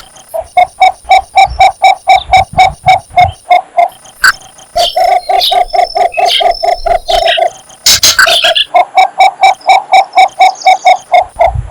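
Cinnamon bittern giving its advertising call to a mate: a long, rapid series of low, hollow notes, about four to five a second, in two runs broken by a short burst of noise about eight seconds in.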